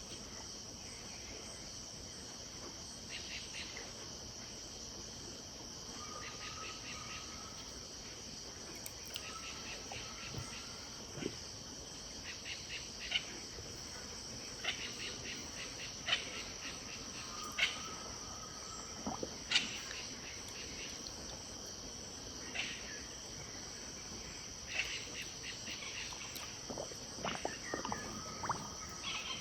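Steady high-pitched insect chorus, crickets or similar, with birds calling over it: short rapid chattering calls every few seconds and a brief whistled note that recurs about four times.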